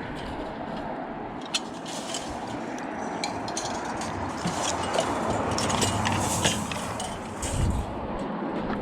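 Pieces of scrap metal clanking and knocking as they are handled and loaded, a run of sharp irregular knocks over a steady background noise.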